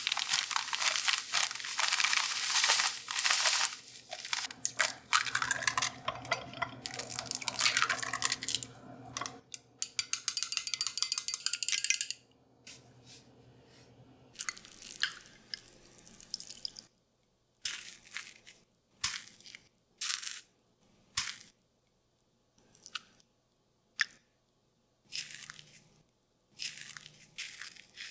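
Dense crunching and rustling for about twelve seconds, then a run of separate short crunches about one to two seconds apart, with soft background music underneath.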